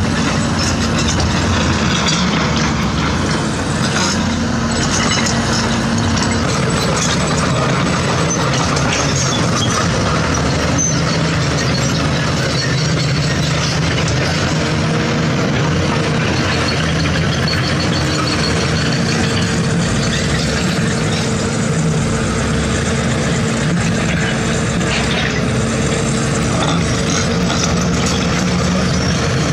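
Heavy diesel earthmoving machinery working: a steady engine drone with scattered metallic clanks and knocks.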